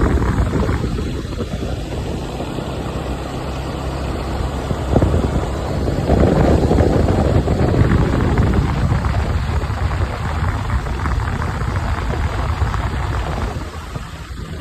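Motorcycle engine running with a steady low hum. It gets louder about six seconds in and eases again about three seconds later.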